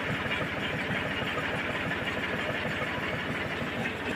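Sonalika tractor's diesel engine idling steadily, with an even low chugging pulse.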